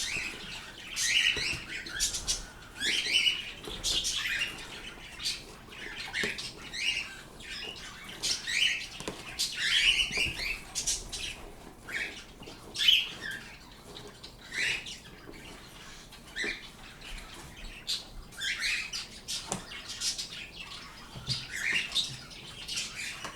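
Pet birds chirping and squawking: short, high calls, some sliding in pitch, come every second or so.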